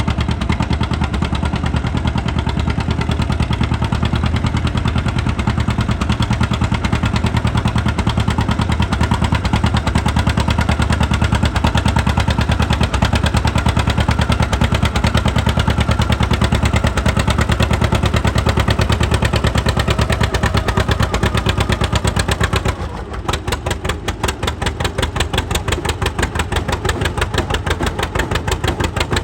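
Styled John Deere A's two-cylinder engine working hard under load, with a rapid, even popping exhaust. About 23 seconds in it drops back to a quieter, thinner popping.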